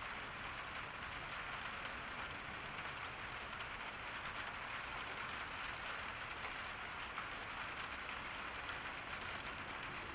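Steady summer rain falling on a garden: an even, continuous hiss of drops. A couple of brief high-pitched chirps stand out, one about two seconds in and more near the end.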